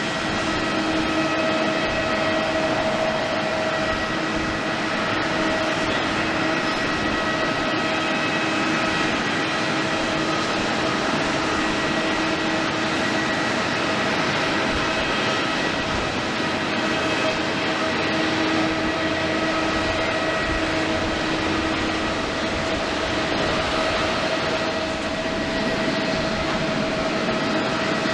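Boeing 777-300ER's GE90-115B jet engines running steadily at low power, a constant whine of several held tones over a rushing hiss.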